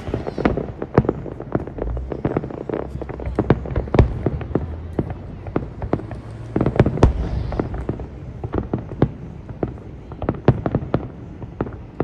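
Fireworks display going off: a rapid, irregular string of sharp bangs and pops over a low rumble, heaviest about four and seven seconds in.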